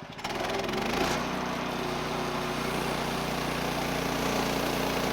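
Woodland Mills HM130 bandsaw mill's 14 HP Kohler engine throttling up from idle about a quarter second in, then running steadily at full speed, its centrifugal clutch engaged to drive the band blade for a cut.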